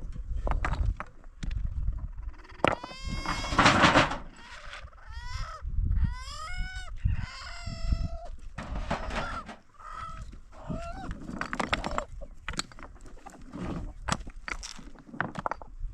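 Domestic poultry calling: a run of loud pitched calls, some bending down in pitch, between about three and eight seconds in, over scattered knocks and clatter.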